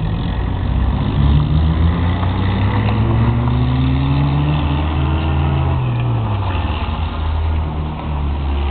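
Small car's engine accelerating: its pitch climbs steadily for a few seconds, then falls back as it comes off the throttle, over a continuous low rumble.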